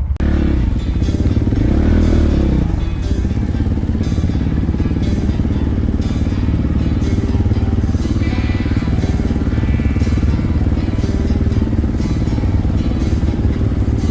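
Dirt bike engine running under way, mixed with background music with a steady beat.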